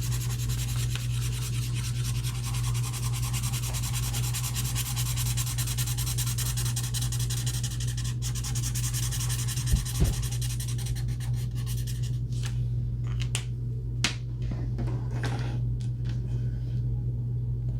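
Alcohol marker tip rubbing on paper in fast, continuous back-and-forth colouring strokes, turning to fewer, separate strokes for the last few seconds, over a steady low hum.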